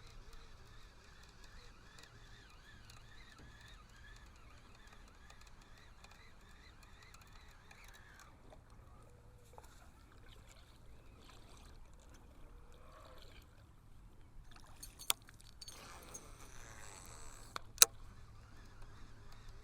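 Faint sounds of a small fishing boat on calm water: light water movement against the hull. Two sharp clicks or knocks come near the end, the second louder.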